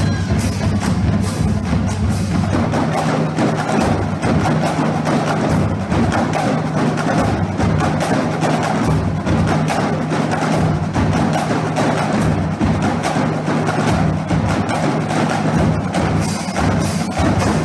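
Marching drumline playing a cadence: a fast, dense stream of drum strokes over pitched bass drum notes that step between a few pitches.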